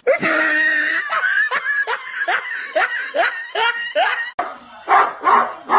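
A person laughing in a rapid run of short bursts, about three a second. It cuts off abruptly a little after four seconds and is followed by a few louder, separate short sounds.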